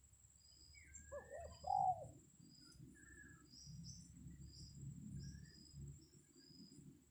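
A spotted dove gives a short low coo about a second in, the loudest sound, over scattered high chirps of small birds.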